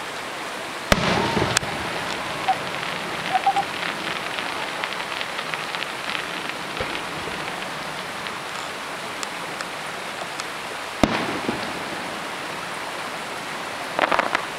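Fireworks going off. There are sharp bangs about a second in, again soon after and near eleven seconds, with a long spell of dense crackling from crackle shells between them, and a quick cluster of pops near the end.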